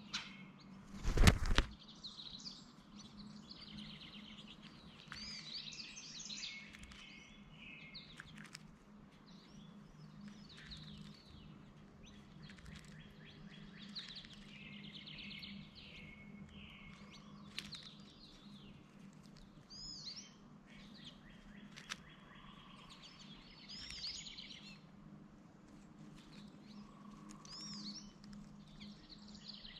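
Wild birds chirping and twittering, many short high calls overlapping throughout, over a faint steady low hum. A loud thump about a second in.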